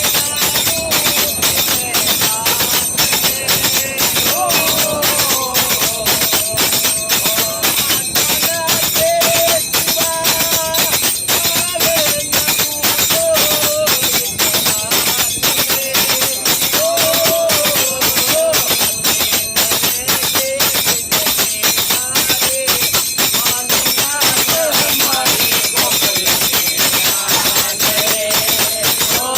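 A voice singing a wavering melody over fast, steady jingling percussion, with the singing pausing now and then while the jingling keeps going.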